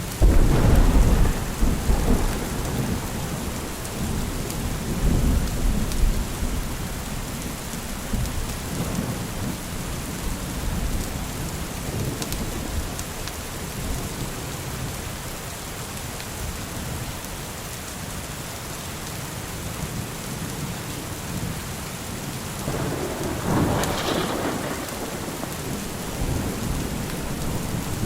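Steady rain with rolling thunder: a deep rumble right at the start, another a few seconds later, and a stronger, sharper roll of thunder near the end.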